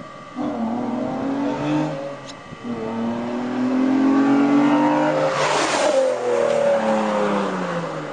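Nissan 350Z's 3.5-litre V6 through an HKS exhaust, accelerating hard. The engine note rises, breaks briefly about two seconds in as if for a gear change, then climbs again to its loudest about five and a half seconds in, after which the pitch falls away.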